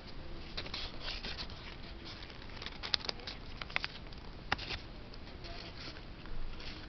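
Sheet of paper being bent and creased by hand while folding a paper airplane: scattered crinkles and rustles, with a few sharper crackles about halfway through.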